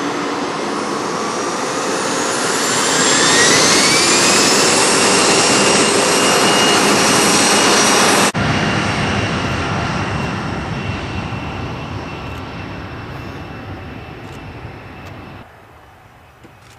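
Jet airliner engines running loud, their whine rising in pitch about three seconds in. The sound breaks off sharply about eight seconds in, and a quieter jet roar then fades away.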